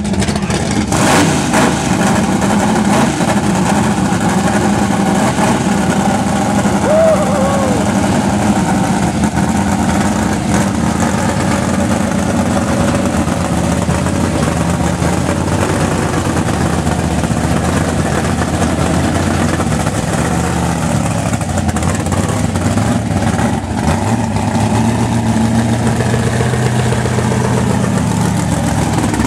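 Engine of a 1000-horsepower Chevrolet drag car idling loudly and steadily with no revving, as the car rolls slowly through the pits.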